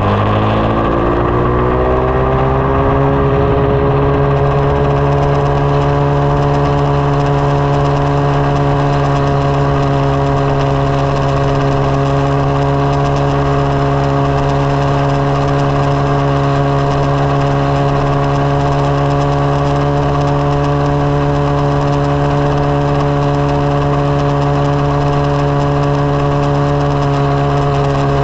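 2020 SSR 189 dirt bike's single-cylinder four-stroke engine climbing in pitch over the first few seconds, then running at a steady pitch for the rest.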